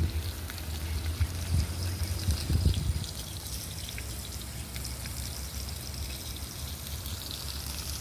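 Beef steaks sizzling in oil on a disco (plow-disc pan) over a wood fire: a steady hiss with scattered crackles, and a low rumble during the first three seconds.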